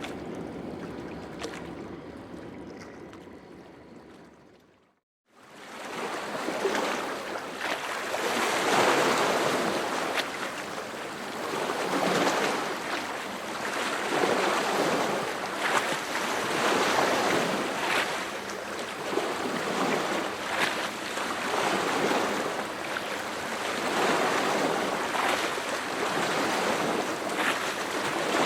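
Sea waves breaking on a shore, the surf swelling and falling back every couple of seconds. A quieter stretch at the start fades out to silence about five seconds in, and then the surf comes in.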